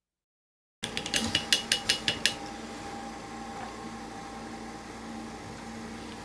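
After a moment of dead silence, a quick run of about eight light, hard clinks over a second or so, then a steady room hum with a faint steady whine.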